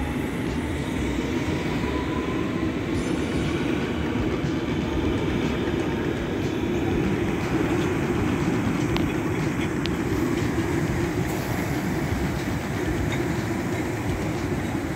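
London Underground train running steadily on the Metropolitan line: an even, continuous rumble of wheels and running gear.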